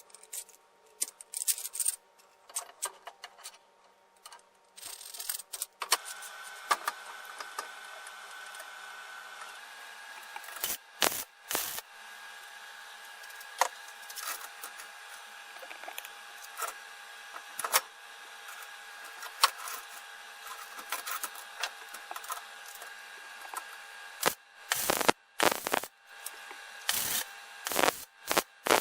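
Workshop handling noises: scattered clicks and knocks, with a faint steady hum starting about six seconds in and several longer rubbing strokes near the end.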